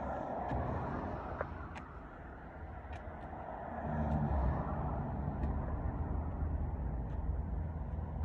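A vehicle engine running, its low hum growing louder and heavier about four seconds in.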